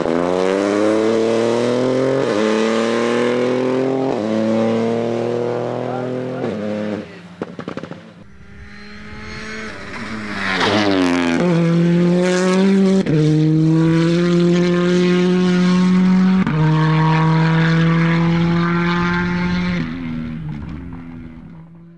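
Rally cars at full throttle on a stage. The first accelerates hard, changing up through the gears, then lifts off about seven seconds in with a burst of pops and bangs from the exhaust. A second car sweeps past, dropping in pitch as it goes by, and pulls away changing up through the gears before the sound fades out.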